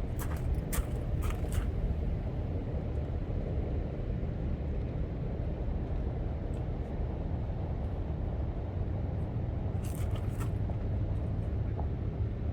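Steady low rumble of a vehicle engine running, with a few short clicks about half a second, one second and ten seconds in.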